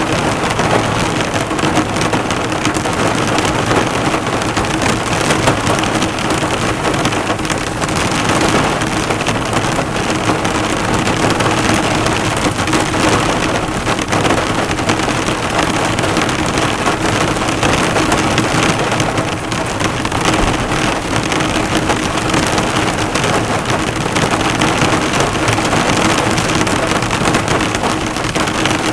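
Heavy rain falling on a car, the drops spattering and bouncing off the hood in a dense, steady patter, with a faint steady low hum underneath.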